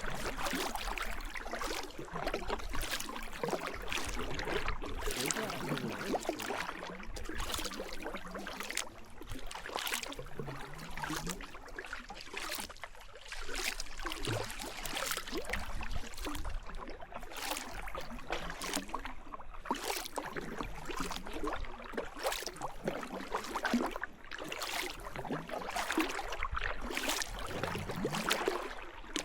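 Kayak paddle blades dipping into river water in a steady stroke rhythm, about one splash a second, over the continuous rush of water.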